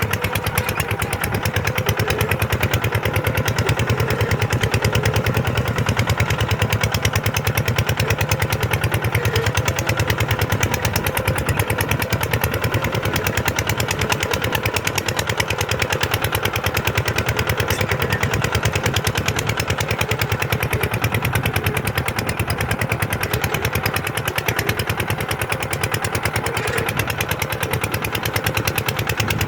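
A Kubota ZT-series single-cylinder diesel engine on a small tractor running steadily under load while plowing sand, its firing a fast, even chugging with no change in speed.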